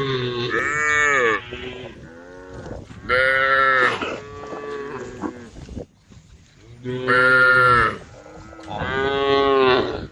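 Cows mooing repeatedly: about four long calls, each lasting roughly a second and rising then falling in pitch, with short quieter pauses between them.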